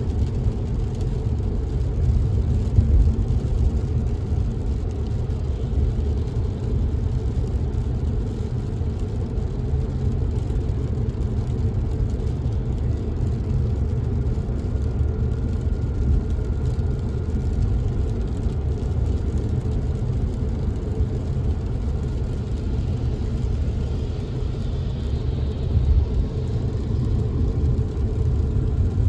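Car driving, heard from inside the cabin: a steady low rumble of engine and tyres on the road, with a faint thin whine joining about halfway through.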